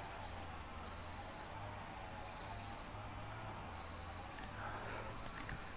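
Insects, crickets or similar, trilling at a high pitch in a repeating on-off pulse, each burst lasting under a second.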